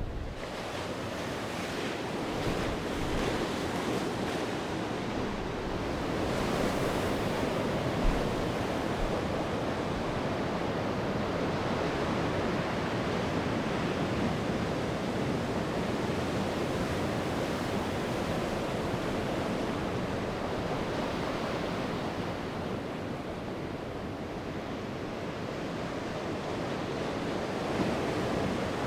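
Sea surf breaking and washing ashore: a continuous rush that swells and eases over several seconds. A brief low thump about eight seconds in, typical of wind hitting the microphone.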